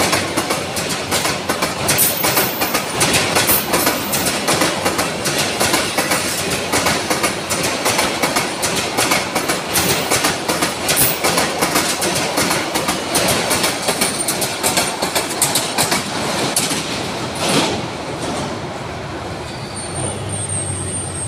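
Passenger train coaches passing close by, the wheels clattering in a dense, quick clickety-clack over the rail joints. About eighteen seconds in the last coach goes by and the clatter drops away, leaving quieter street noise.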